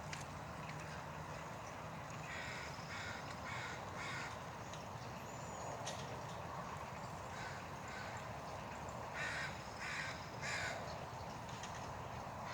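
A crow cawing in series: four caws about half a second apart, a couple of fainter ones, then three louder caws, over a steady low background hum.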